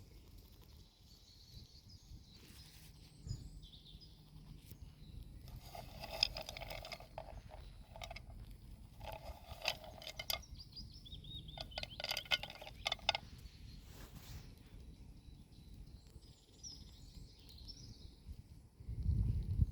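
Quiet forest ambience with a few faint bird chirps and three short bursts of rapid crackling clicks, about six, nine and twelve seconds in. A louder low rumble comes in just before the end.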